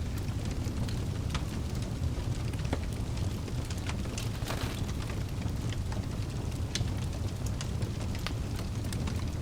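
Wood fire burning in a fireplace: a steady low rumble of flame with frequent irregular crackles and pops of burning logs, one larger crackle about four and a half seconds in.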